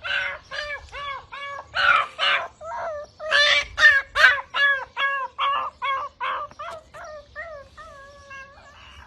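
A bird calling in a fast, unbroken run of short arched calls, about three a second, which grow fainter over the last couple of seconds.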